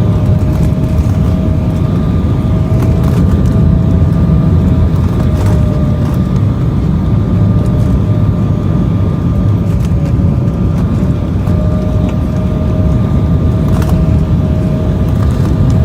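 Embraer 175 jet airliner on approach: a loud, steady low rumble with a steady whine over it whose pitch wavers slightly.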